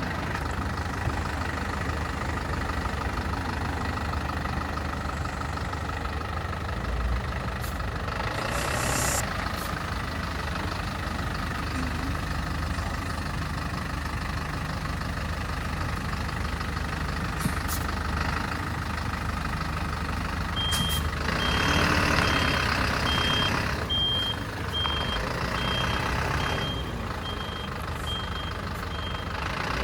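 Vehicle engine idling steadily with a low hum. About two-thirds of the way in, a regular series of short high beeps starts and keeps repeating.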